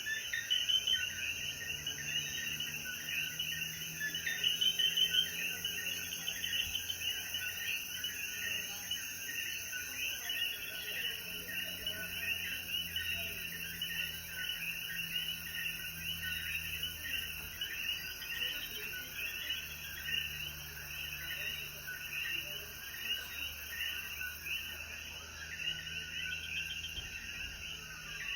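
Dense night chorus of many common coquí frogs calling at once, their short rising calls overlapping without pause. A steady high-pitched insect trill runs underneath and stops about ten seconds in.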